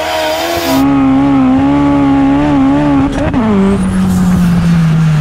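1987 Fiat Uno Turbo's tuned 1.3-litre turbocharged four-cylinder engine running hard at high revs. Its pitch falls sharply about three seconds in, then sinks slowly lower.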